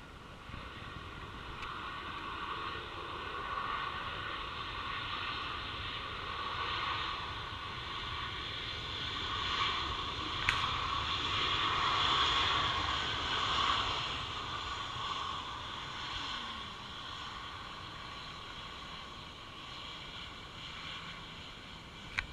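Jet airliner engines heard passing, a steady whooshing roar that builds to its loudest about halfway through and then slowly fades. A single sharp click about halfway through.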